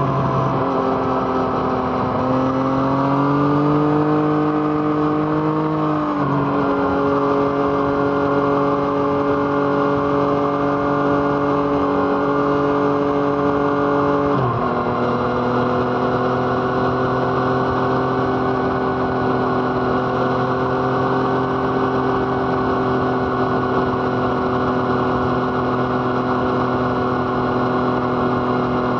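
Yamaha MT-09's three-cylinder engine through an Arrow Thunder exhaust, revs rising under load, then dropping in pitch at an upshift about six seconds in and again at a second upshift about fourteen seconds in, after which it holds steady revs.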